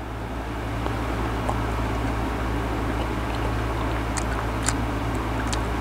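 A person biting off and chewing a slice of mango, with faint mouth clicks and crunches from about four seconds in, over a steady low hum.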